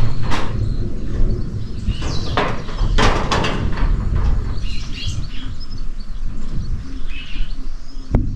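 Birds chirping outdoors, with wind rumbling on the microphone and a few sharp knocks.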